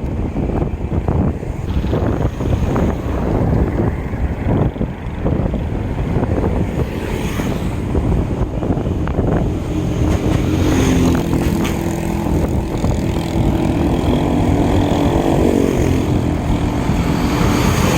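Wind buffeting the microphone of a camera riding along on a bicycle, a constant low rumble. From about ten seconds in, a motor vehicle's engine hum joins it and dips slightly in pitch before fading near the end.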